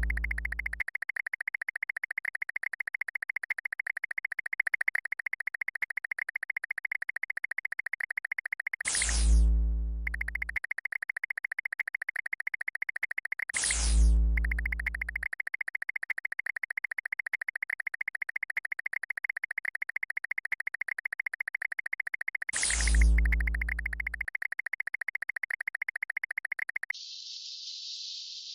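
Synthesized sound effects: a fast, rapidly pulsing electronic buzz, broken three times by a falling swoosh with a deep boom. Near the end it switches to a steady hiss.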